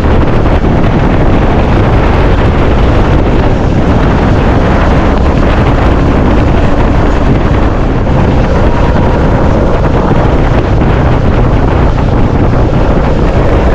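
Loud, steady wind buffeting on the microphone of a moving motorcycle, heaviest in the low rumble and unbroken throughout.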